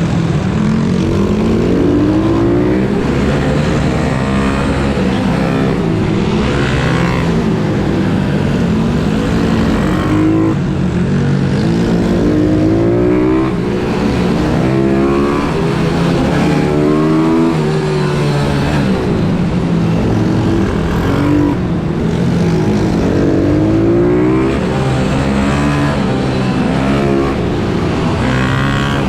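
Pit bike engines revving hard, their pitch climbing and dropping over and over, with several engines often heard at once.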